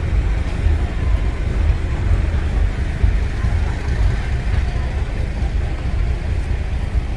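Busy street ambience: a steady low rumble of passing traffic with street noise mixed in.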